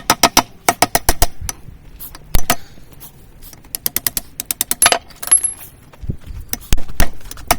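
Hand hammer striking a steel drift on the anvil, driving a 1-inch round drift through the hot eye of a railroad-spike tomahawk to open it round. Irregular runs of sharp metallic clanks with a short ring, one especially heavy blow a little past two seconds in and a quick string of lighter taps around four to five seconds.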